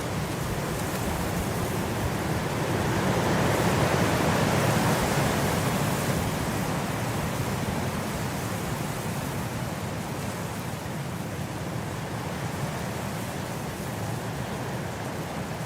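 Blizzard wind blowing in a steady rush of noise, swelling into a stronger gust a few seconds in and then easing back.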